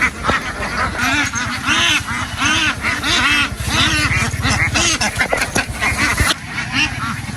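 A flock of domestic ducks quacking, many rapid overlapping calls, over a steady low rumble.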